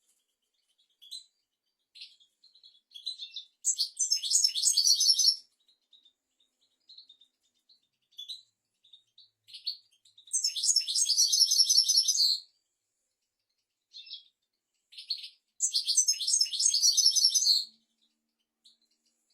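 European goldfinch singing: three bursts of rapid, high twittering trills, each about two seconds long, with short scattered chirps between them.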